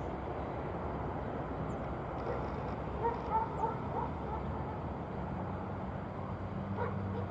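Steady distant aircraft engine rumble. About three seconds in comes a quick run of four short animal calls, with two more near the end.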